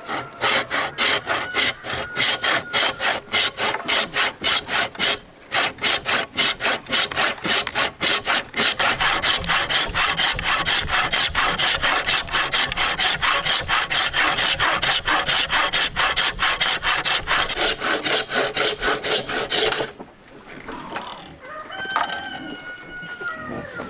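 Hand saw cutting through wood in fast, even strokes, about four a second, with a short pause early and a sudden stop about twenty seconds in. A rooster then crows near the end.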